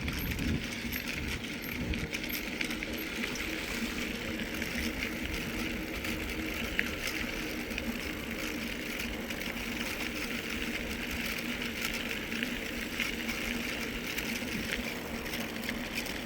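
A mountain bike rolling steadily along a hard-packed sand and gravel trail: a continuous rolling hiss from the tyres with low wind rumble and scattered small clicks and rattles.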